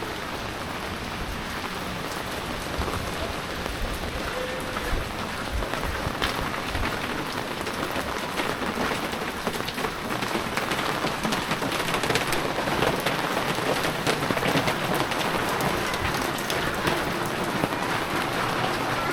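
Heavy rain falling, with many individual drops ticking close by; it grows somewhat louder a little past halfway.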